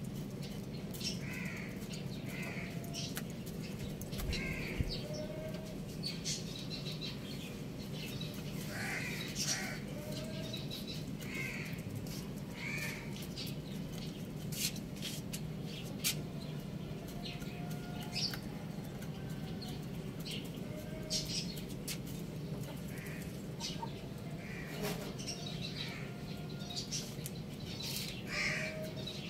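Birds chirping and calling again and again in short notes, with scattered sharp clicks and a steady low hum underneath.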